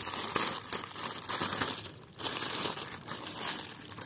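Toy packaging being opened by hand: crinkling, rustling and some tearing, with a short pause about two seconds in.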